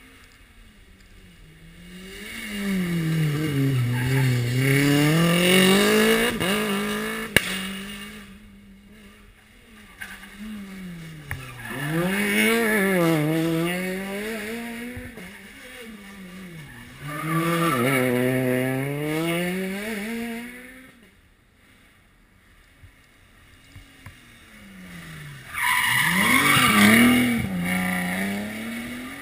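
Rally car engines revving hard, heard in several loud passes, their pitch dropping on braking and downshifts and then climbing again as they accelerate. There is a sharp crack about seven seconds in, and a quieter lull before the last loud run near the end.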